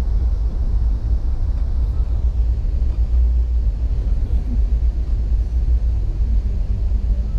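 Passenger train in motion: a loud, steady low rumble.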